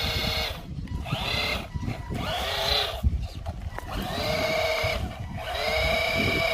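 Electric RC truck's motor whining in repeated bursts of throttle, the pitch holding steady in each burst, with wind rumbling on the microphone.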